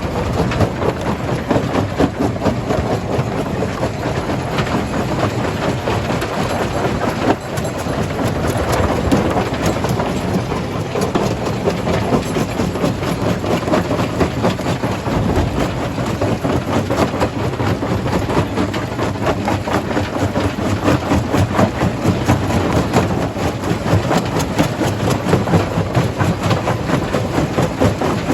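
Stone crusher running under load, with a dense, steady clatter of rock being broken and rattling through the machine over the heavy drone of its drive.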